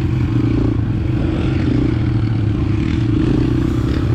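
125cc four-stroke dirt bike engine running under way at a fairly steady speed.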